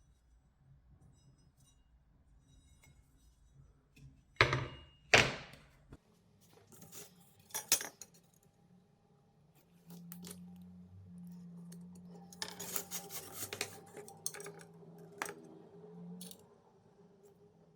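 Metal parts clanking and clinking as they are handled and set down on a hard surface, with two loud clanks about four and five seconds in and a run of rapid clinks later over a low steady hum.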